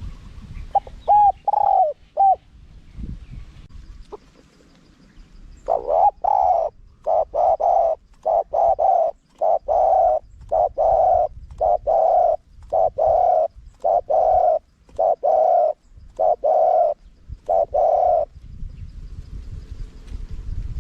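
Spotted dove cooing. A few short coos come about a second in, then a long, regular run of about fifteen coos at roughly one a second, which stops a couple of seconds before the end.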